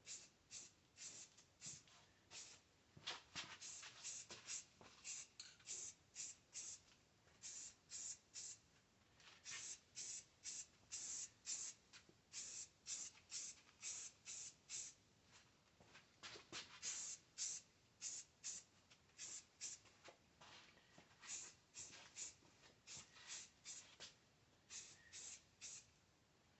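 Aerosol spray-paint can hissing in short bursts, about one or two a second, as black paint-and-primer is sprayed on in light passes.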